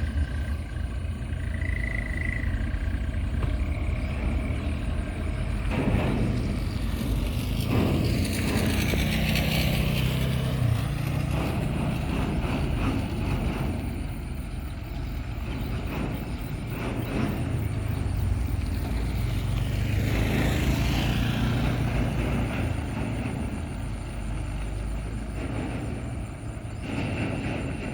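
Heavy truck's diesel engine running under load, swelling louder and higher about a third of the way in and again about two-thirds through.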